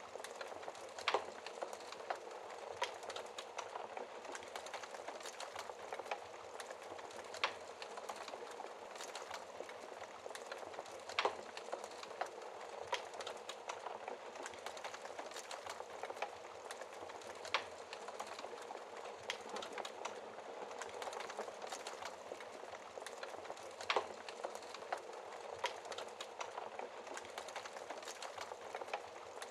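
Wood fire burning in a fireplace: a steady soft crackle with sharp pops and snaps at irregular intervals, a few of them louder.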